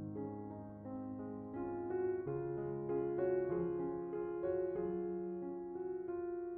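Background piano music, slow and gentle, with held notes changing every half second or so.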